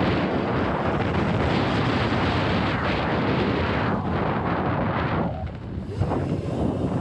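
Heavy wind buffeting on the microphone, with a low rumble, while riding a modified Razor MX6000 electric dirt bike. It eases briefly about five seconds in, then there is a single thump.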